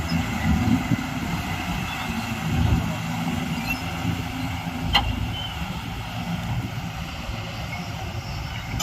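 Heavy diesel engine of a backhoe loader or tipper truck running steadily with a low rumble, and a single sharp click about five seconds in.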